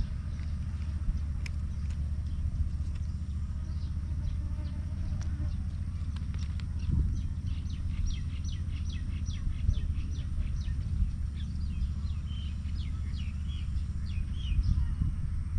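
Small birds chirping in quick runs of short, high notes, mostly in the second half, over a steady low rumble.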